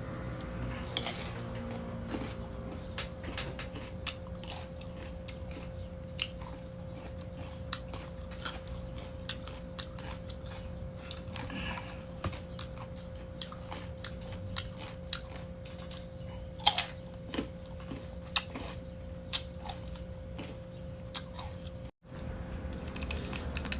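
Crisp green mango being bitten and chewed close to the microphone: irregular crunchy clicks over a steady low hum.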